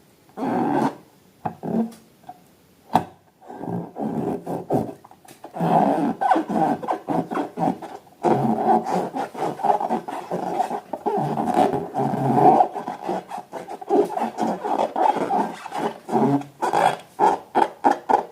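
Rubber balloons squeaking and squealing as they are handled, in uneven runs that break into a quick series of short squeaks near the end.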